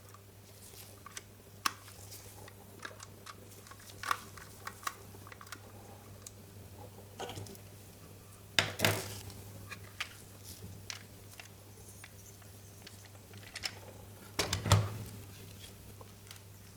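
Light plastic clicks and clatter from a toy being handled, with two louder knocks about nine and fifteen seconds in, over a steady low hum.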